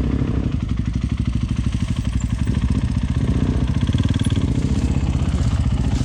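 Honda CRF300L's single-cylinder four-stroke engine running steadily, with an even, rapid pulse.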